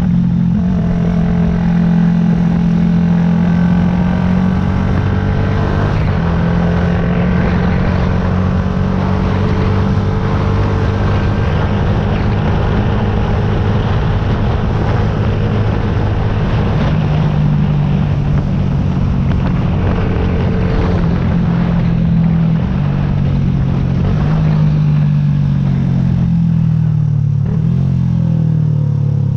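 Yamaha YZF-R125's single-cylinder four-stroke engine running under way at fairly steady revs, its pitch stepping up and down now and then. Near the end the pitch drops several times in a row as the bike slows.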